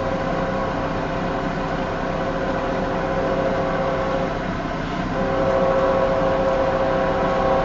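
Union Pacific diesel freight locomotives approaching: a steady drone of several held tones over a broad rumble, breaking briefly about four and a half seconds in and then returning louder.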